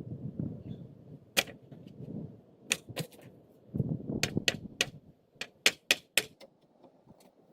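A series of sharp, irregular clicks and knocks, about ten of them, over a low rumbling noise.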